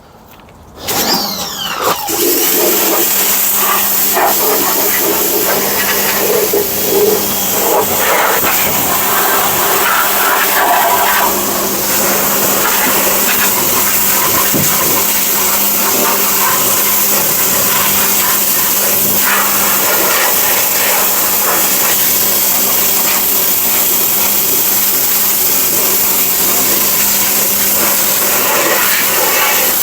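Pressure washer starting up about a second in, rising in pitch, then running steadily with a constant hum under the loud hiss of the spray.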